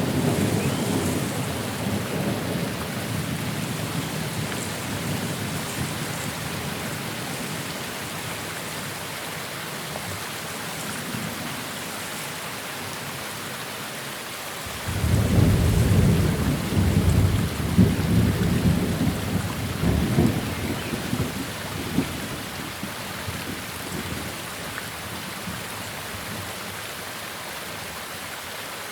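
Steady rain with thunder. A rumble fades away over the first several seconds, then a sudden loud thunderclap about halfway through rolls on for several seconds before dying down.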